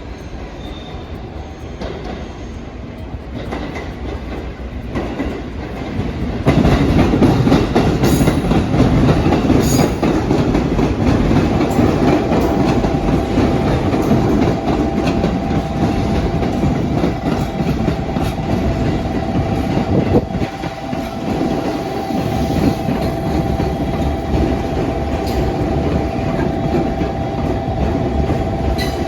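Train passing close by, wheels clattering over the rail joints, growing louder and jumping up about six seconds in, then running on loudly; a steady high whine joins about twelve seconds in.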